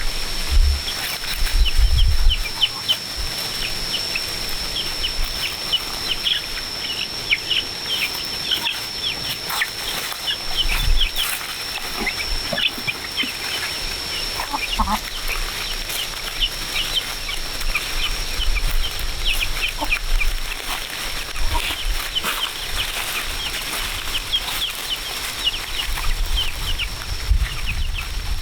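Farm animals making many short, high chirping calls, several a second, over a steady high-pitched whine, with a few low thumps near the start.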